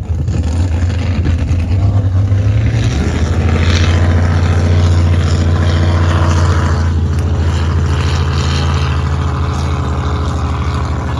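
Race boat engine running loud and steady at low speed, a deep even rumble that settles a little lower in pitch about three seconds in.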